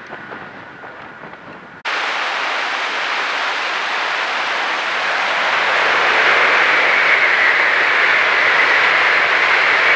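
Rushing river water over rocks, an even hiss that starts suddenly about two seconds in. From about six seconds, a 300 Series Shinkansen train crossing a steel truss bridge overhead adds a louder steady rushing sound.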